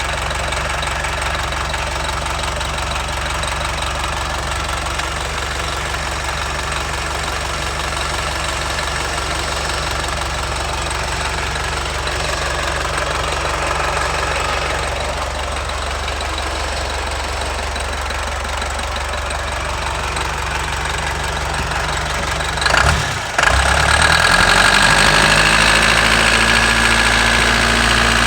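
Toyota 14B four-cylinder diesel engine idling with a steady diesel knock; near the end it is revved and its speed climbs.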